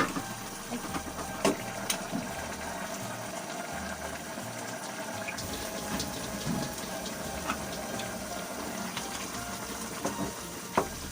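A pot of chicken adobo simmering in its sauce, a steady bubbling hiss, with a few light clicks scattered through it.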